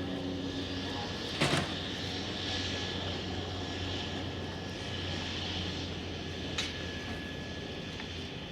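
A floatplane's engine running steadily with a low hum. A sharp click comes about a second and a half in, and a fainter one near the end.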